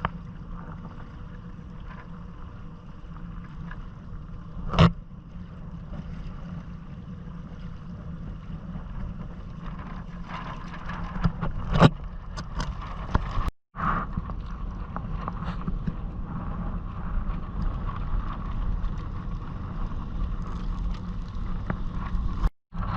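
Steady wind and water noise while sailing a Hobie Island kayak, with two sharp knocks about five and twelve seconds in. The sound cuts out for a split second twice, in the middle and near the end.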